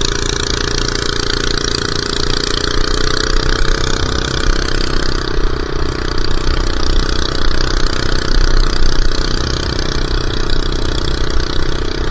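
Minibike's small engine running steadily as it is ridden, at a fairly even pitch. The rider says it struggles to get going.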